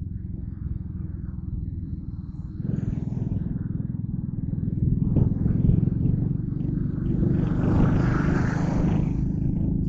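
A Yamaha Crypton R underbone motorcycle's small single-cylinder four-stroke engine is running under way. It gets louder a few seconds in and again midway as the bike picks up speed. Near the end a rush of wind or road hiss swells and fades.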